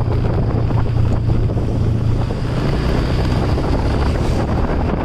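Wind buffeting the microphone while riding a motorcycle, a loud steady rush over a low, even drone from the moving vehicle.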